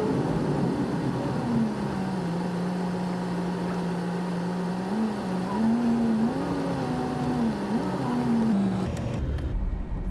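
A vehicle engine running while driving, its steady note rising and falling a few times with speed. Near the end it gives way to low wind rumble on the microphone.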